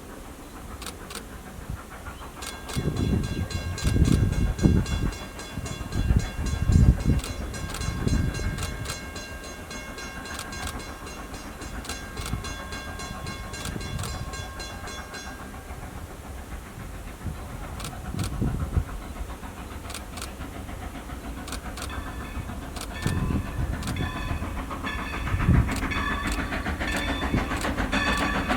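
Strasburg Rail Road No. 90, a 2-10-0 steam locomotive, working with heavy exhaust chuffs. For much of the first half a bell rings steadily with regular strokes, and near the end a ringing tone returns.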